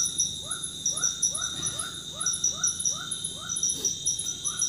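Forest insect chorus: a steady high buzz with pulsing high trills, under an animal's short rising call repeated about three times a second.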